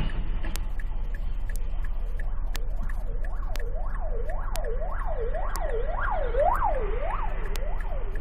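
Emergency vehicle siren on a fast yelp, its pitch sweeping up and down about twice a second. It comes in about three seconds in and grows louder toward the end, over a steady low drone and a regular tick about once a second.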